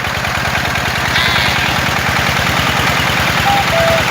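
Tractor engine idling with a steady, even chugging beat, about a dozen pulses a second. Near the end come two short two-note tones.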